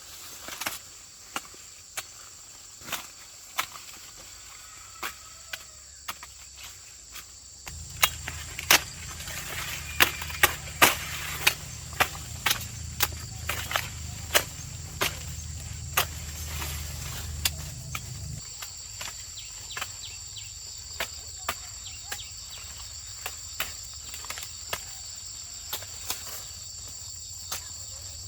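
Insects trilling steadily, with many irregular sharp snaps and cracks. A low rumble sets in about eight seconds in and stops about ten seconds later.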